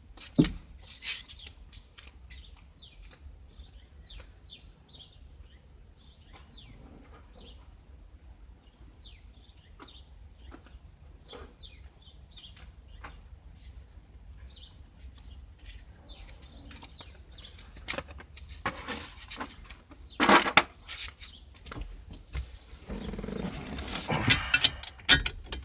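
Birds chirping faintly in a string of short, falling calls. Near the end, loud clinks and rattles of hand tools being handled.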